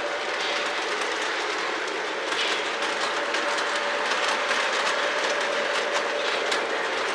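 Lionel O-gauge model train, led by a BNSF SD70ACe locomotive, running on the layout track: a steady rolling rumble with a faint motor hum and irregular clicks of the wheels over the rail joints.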